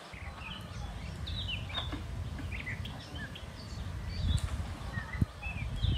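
Small birds chirping in short, scattered calls over a steady low rumble, with a few faint knocks near the end.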